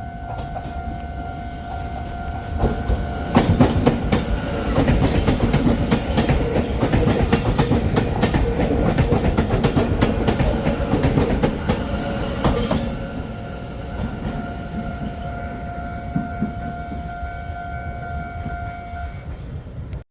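A train passing at speed through a station, its wheels clattering rapidly over rail joints and loudest for about ten seconds in the middle. A steady tone sounds before the train arrives and again after it has gone.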